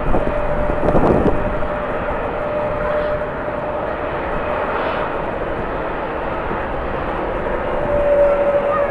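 Jet airliner engines running with a steady whine over a broad rushing noise. Strong wind rumbles on the microphone, with a short louder burst about a second in.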